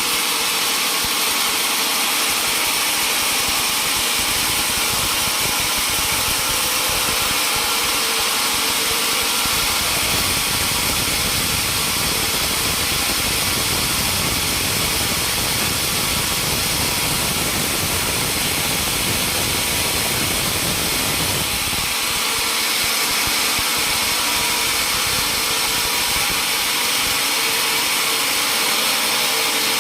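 Sawmill machinery running steadily: a constant hiss with a steady hum. A deeper rumble joins about ten seconds in and drops away about twenty-one seconds in.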